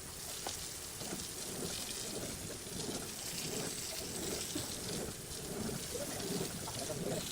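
Water falling and pattering on surfaces: a dense, irregular spatter with no steady rhythm.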